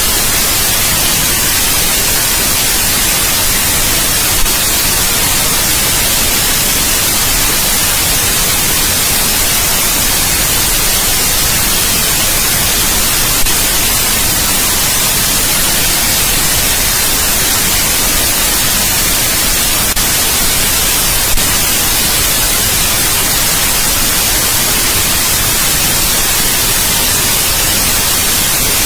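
Steady white noise: a loud, even hiss that never changes, with three brief faint clicks.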